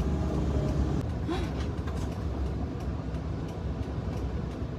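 Steady low rumble of a manual-transmission car being driven, with engine and road noise heard from inside the cabin.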